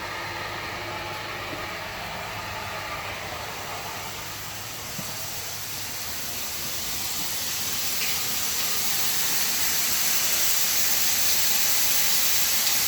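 Steady hiss of water spraying from a burst water supply hose line, growing louder over the second half.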